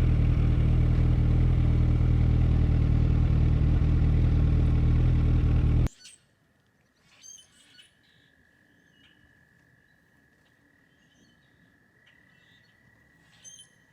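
Yamaha FZ1 motorcycle's inline-four engine running steadily, cutting off abruptly about six seconds in. After that it is quiet, with scattered bird chirps and a thin, steady high tone.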